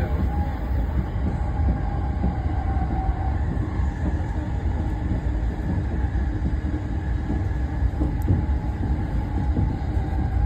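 Electric commuter train running, heard from inside the carriage: a steady low rumble of wheels on the rails.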